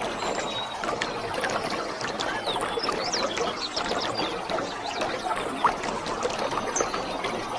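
Waterfall: water pouring and splashing steadily, with a dense patter of small bubbling splashes.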